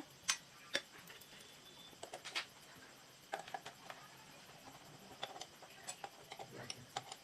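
Scattered light clicks and small metal taps at irregular intervals, from hand tools and parts being handled.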